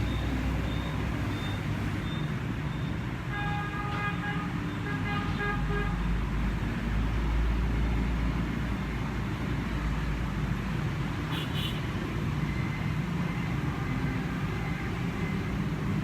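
Road traffic running steadily, with a vehicle horn tooting twice about four seconds in.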